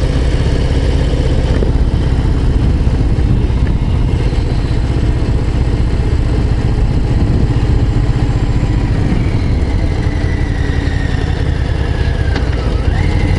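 Harley-Davidson Low Rider ST's Milwaukee-Eight 117 V-twin running steadily at low revs while riding, in gear on a mountain descent.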